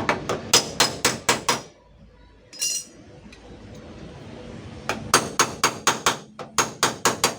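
Rapid light hammer taps on the dented rear door panel of a Daihatsu Luxio van, about five a second, as the dent is knocked out. The tapping stops after under two seconds, a single short metallic clink falls in the pause, and the taps start again about five seconds in.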